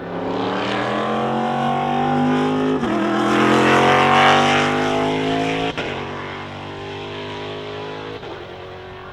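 Race car accelerating hard past the track edge, its engine pitch climbing and then dropping back at each upshift, about three and six seconds in. It is loudest as it passes mid-way and then fades as it pulls away.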